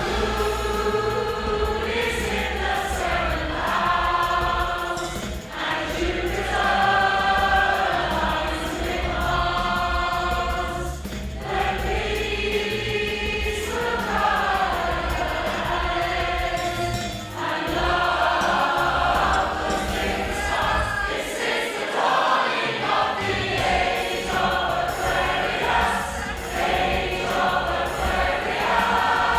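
Women's choir singing live, in sustained sung phrases separated by short breaths every few seconds.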